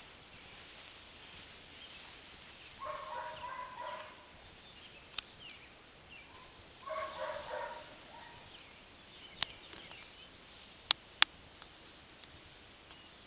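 A bird calls twice, each call about a second long and made of rapid broken notes. Several sharp clicks come later, the loudest two close together near the end.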